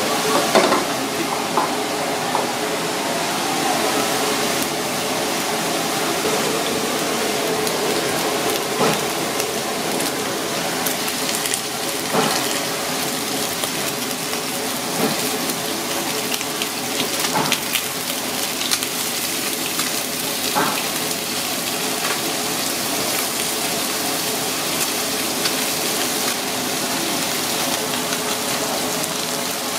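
Spanner crab meat frying in oil in a non-stick pan over a gas burner: a steady sizzle, broken by short clicks of utensils against the pan. Near the end, pan juices poured through a metal strainer into a steel bowl.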